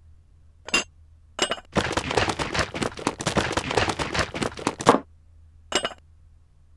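LEGO bricks clattering inside two bowls held rim to rim and shaken, a dense rattle of plastic pieces against the bowl walls for about three seconds. Single clicks come before it, and one more comes after as the bowls are handled and set down.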